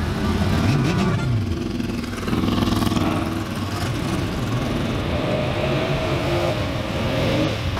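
Car engines running as classic cars pull away one after another, with a rev that rises and falls about a second in and a different car's engine coming in a little past two seconds.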